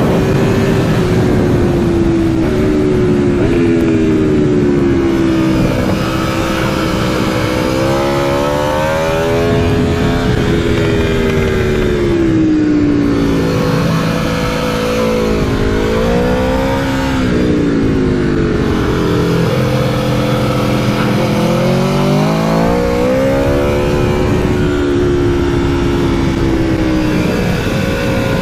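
Aprilia Tuono V4 motorcycle's V4 engine heard onboard at speed, its pitch climbing under throttle and dropping again several times as the bike accelerates and slows through the track's corners.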